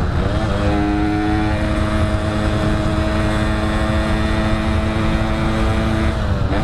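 Yamaha RX-King's two-stroke single-cylinder engine running at a steady cruising pitch, heard from the rider with a low rumble of wind and road under it. The pitch slides down and settles just after the start, and dips again near the end.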